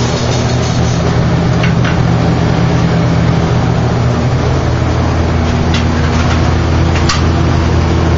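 Turbocharged four-cylinder car engine idling steadily, with a few faint clicks.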